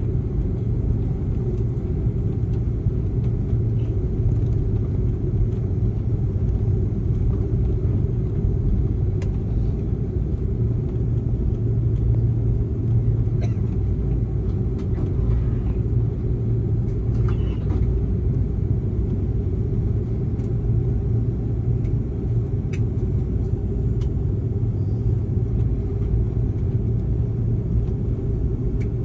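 Passenger airliner's engines and airflow, a steady low rumble with no change in pitch.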